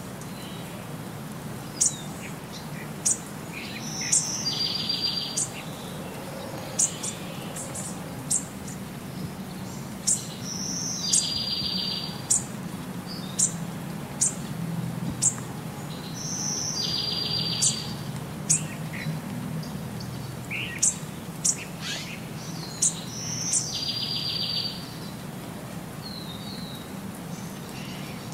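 Birds chirping: sharp high chirps and a short buzzy trill that repeat in the same pattern about every six seconds, over a steady low hum.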